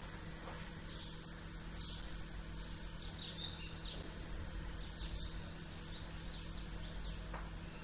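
Small birds chirping in many short, scattered calls at dawn, over a steady low hum in the background.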